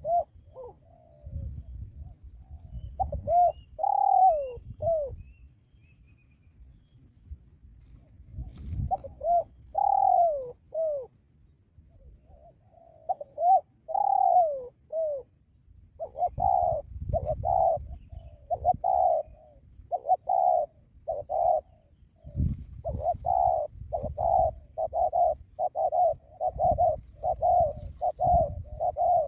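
Spotted dove cooing: several separate coo phrases in the first half, then from about halfway a fast run of short repeated coos, about two a second.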